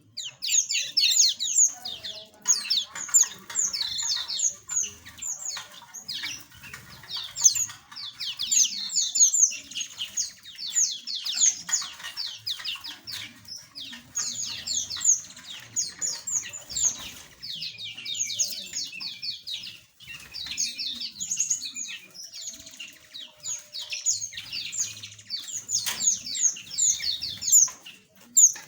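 A flock of small aviary birds chirping constantly, many rapid high chirps overlapping one another.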